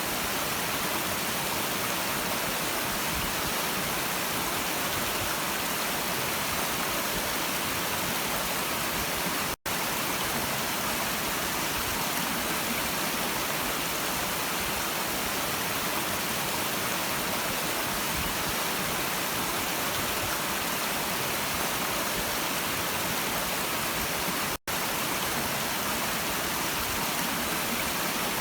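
A stream's water rushing steadily in an even, unbroken hiss. The sound cuts out for an instant twice, about ten seconds in and again about a dozen seconds later.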